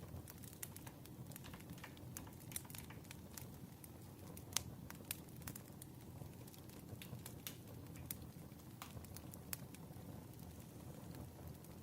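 Wood fire crackling: a steady low rumble with scattered sharp pops and snaps, the loudest about four and a half seconds in.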